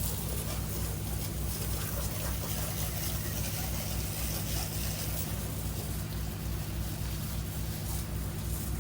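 Small engine of a pressure-washing rig running steadily under a constant hiss.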